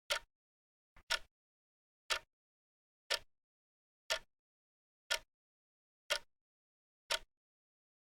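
Clock ticking: sharp, short ticks about once a second, with silence between them.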